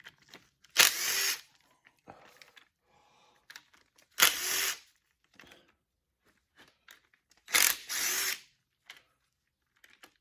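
A handheld power tool run in three short bursts about three and a half seconds apart, backing out the front-cover bolts of a Case 188D diesel engine, with small clicks of handling between the bursts.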